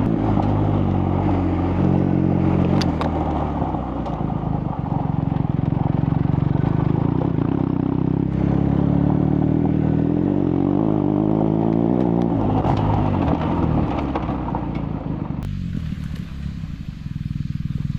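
BMW R1250GS boxer-twin engine running under way, its revs rising and falling steadily, with road and gravel noise and an occasional clatter. About 15 seconds in, the higher sounds drop away suddenly and it turns duller.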